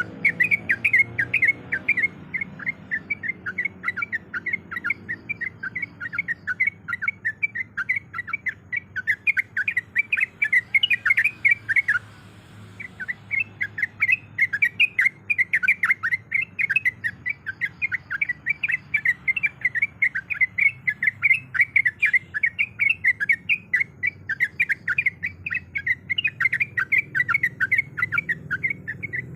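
Sooty-headed bulbul (trucuk) chattering in a fast, unbroken run of short notes, with a brief pause about twelve seconds in.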